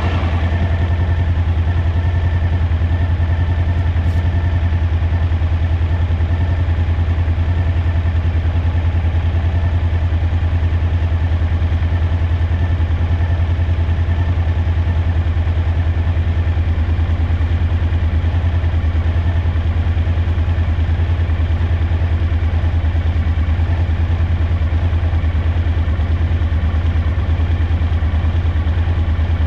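Suzuki V-Strom DL1000's V-twin engine running steadily with an even low pulse and no revving, with a misfire in the rear cylinder.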